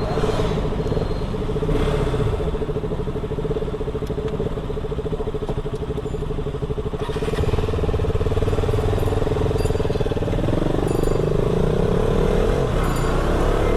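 Motorcycle engine running steadily under way, its note changing about ten seconds in.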